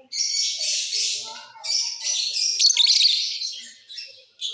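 A flock of lovebirds chirping and chattering, a dense high twittering in two long stretches, with a run of rapid sharp chips about three seconds in.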